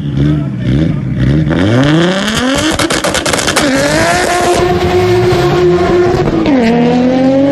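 Engines of a Nissan Skyline R32 GT-R and a VW Golf GTI revving at the start line, then launching and accelerating hard, with a gear change about six and a half seconds in.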